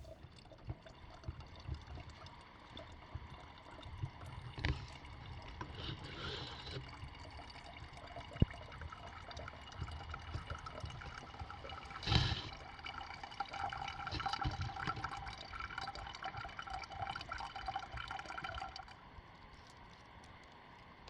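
Lake water lapping and trickling at the shoreline, with small splashes and a sharp knock partway through.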